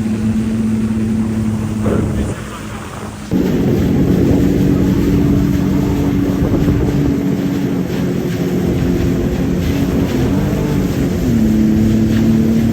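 Personal watercraft (jet ski) engine running at a steady speed, easing off briefly about two seconds in, then opening up again at about three seconds to a higher pitch and settling back down near the end.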